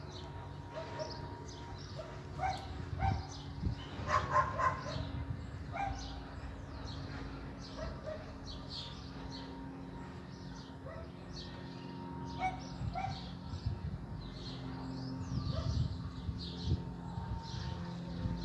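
Dog barking in short bouts, loudest about four to five seconds in, with birds chirping throughout over a steady low drone.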